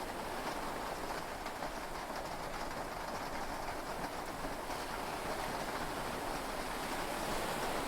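Heavy rain falling steadily on a yacht, heard from inside the cabin as an even, unbroken wash of noise.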